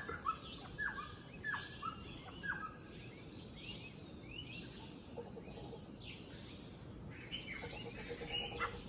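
Birds calling: a series of four short, downward-slurred calls in the first few seconds, then scattered higher chirps, with a faint low call underneath near the end.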